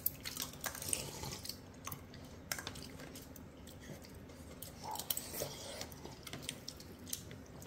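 A child chewing food with faint wet mouth sounds and scattered small clicks.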